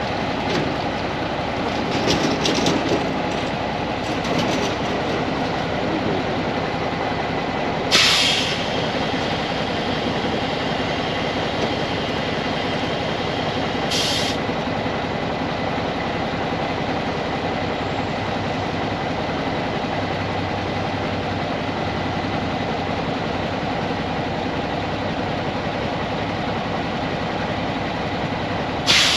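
Mack diesel truck engine running steadily while the roll-off hoist hydraulics work the body, with sharp metallic clanks about eight seconds in, again around fourteen seconds, and once near the end.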